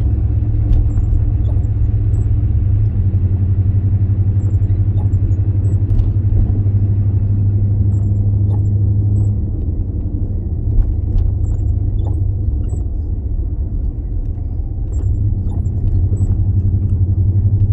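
Low road and engine rumble heard from inside a moving car's cabin, easing a little around the middle and building back up near the end.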